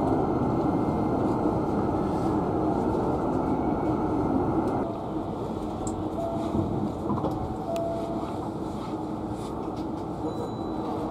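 Hankyu 9300-series train running, with a steady rumble of wheels and running gear heard from inside the car behind the driver's cab. The noise eases a little about five seconds in.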